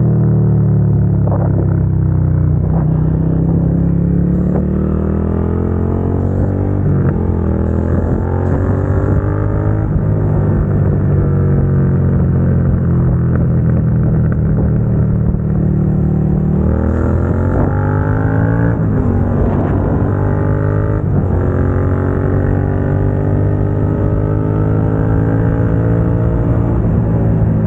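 Suzuki SV650's V-twin engine through a Dominator GP aftermarket exhaust, heard from on the bike while riding. The engine note falls off over the first few seconds as the rider rolls off, rises and falls, then revs climb sharply about two-thirds of the way in, drop at a gear change, and pull steadily again.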